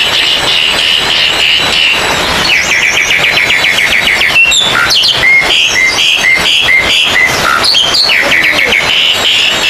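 Several oriental magpie-robins (kacer) singing loudly over one another. Their song comes in runs of quick repeated whistled notes and slower strings of separate notes, over a steady hubbub.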